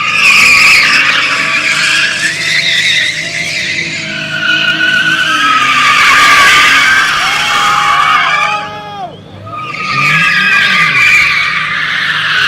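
Car tyres screeching loudly under wheelspin while a car does donuts, with the engine revving up and down. The screech breaks off briefly about nine seconds in and then starts again.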